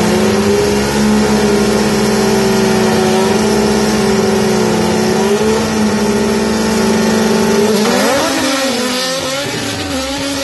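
Drag-racing car's engine held at steady high revs on the start line. About eight seconds in the pitch shifts: one tone climbs while another falls away.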